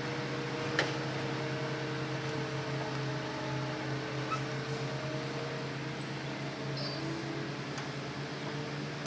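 Hitachi Zaxis excavator's engine running at a steady hum, with a sharp click about a second in and a couple of fainter ticks midway.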